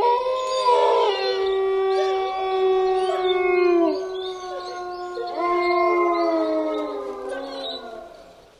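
Canine howling, several voices overlapping in long, drawn-out howls. One howl is held and drops in pitch at its end about four seconds in, then another rises, holds and fades out near the end.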